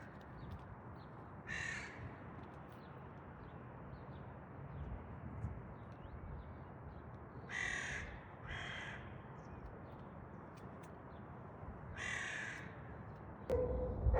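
A bird gives four short, harsh, cawing calls, spaced a few seconds apart, over a low steady background rumble. Just before the end a louder sound with a steady tone cuts in.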